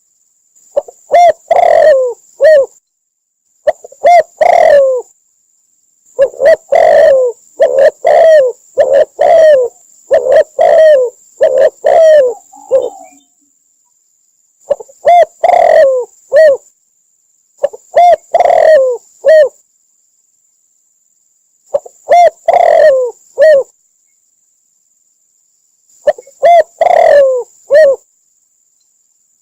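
Spotted dove cooing: loud, repeated phrases of a few low coos each, with pauses of one to two seconds between phrases. Between phrases the sound drops to dead silence, as in an edited, looped recording.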